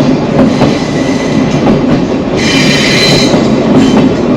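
Sagano Romantic Train sightseeing carriage rolling along, its wheels rumbling and clacking over the rails, with a high-pitched wheel squeal for about a second midway through.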